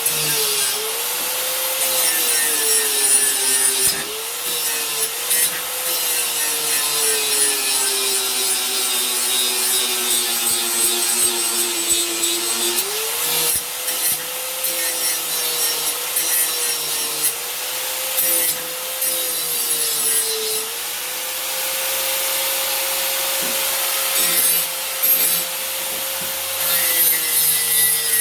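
Electric power tool grinding the steel of an old meat cleaver: a steady motor whine whose pitch sags and recovers again and again as the blade is pressed into the abrasive, over a constant rasping hiss. This is the edge work that takes off the burr.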